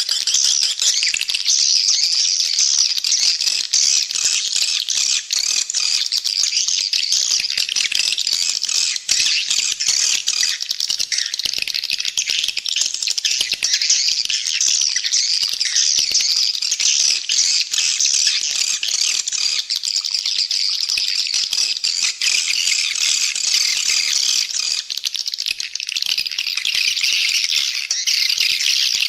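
Many swiftlets chittering at once in a dense, unbroken high twitter. This is a swiftlet call recording (suara panggil walet), the kind played to lure edible-nest swiftlets into a nesting house.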